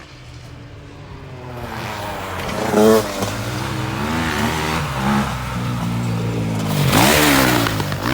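Motocross motorcycle engine revving up and down as it is ridden, getting louder from about two seconds in, with sharp rises at about three seconds and again near the end.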